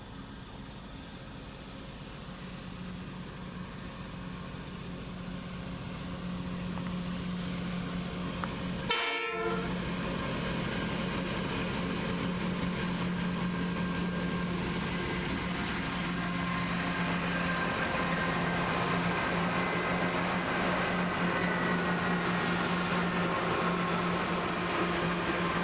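Pacific National NR-class diesel-electric locomotives approaching at the head of a long container train, their engine drone growing steadily louder, with faint high whines that slide down in pitch in the second half.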